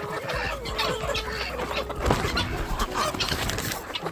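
A flock of chickens clucking, many short overlapping calls with a few longer held notes, and one sharp knock about two seconds in.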